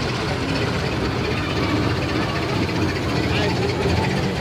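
Crowd chatter of many voices, none clear, over the steady low sound of an engine running.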